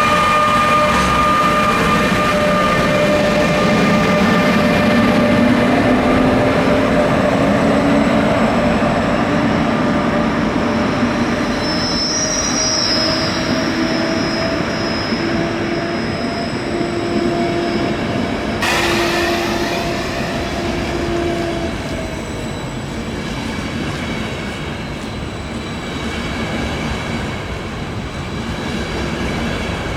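Train moving through a station, with wheels squealing and several steady whining tones over a rolling rumble. The sound changes suddenly about two-thirds of the way in and then gradually grows quieter.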